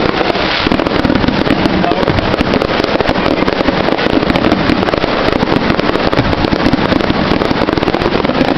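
Dense fireworks going off without a break: rapid crackling pops and bangs that keep overlapping, loud enough to drown out talking.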